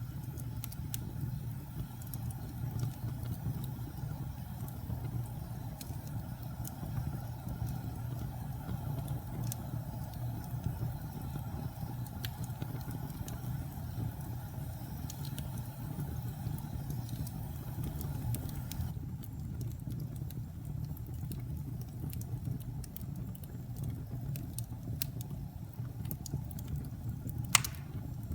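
Logs burning in a fireplace: a steady low roar of the flames with scattered small crackles, and one loud pop near the end.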